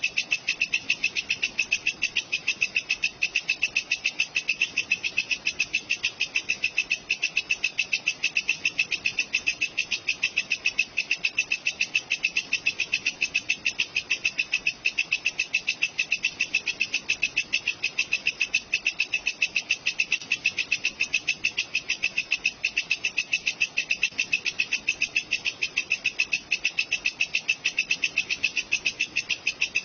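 Walang kecek insect calling: a continuous, high-pitched trill pulsing fast and evenly, without a break.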